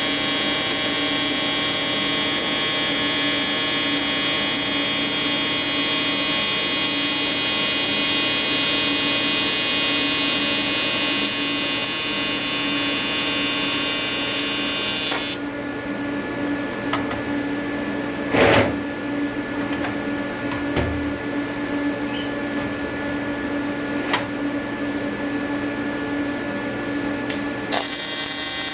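AC square-wave TIG welding arc from an Everlast 325EXT welding an aluminium intercooler: a steady, loud buzz. It cuts off suddenly about halfway through, leaving a quieter hum with a single knock and a few clicks, and the arc buzz starts again near the end.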